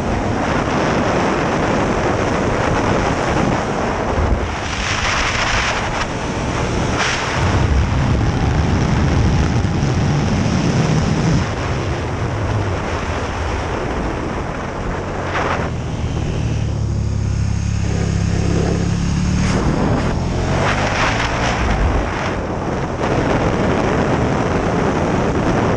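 KTM 1290 Super Duke R's V-twin engine heard from on board at track speed, under heavy wind noise on the microphone. Partway through, the engine note comes through more clearly as the bike slows for a corner, then rises again as it accelerates away.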